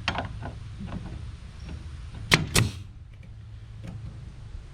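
Staple gun fired twice in quick succession, two sharp snaps about a third of a second apart, driving staples into the frame of a hive robbing screen; a few fainter handling clicks come before them.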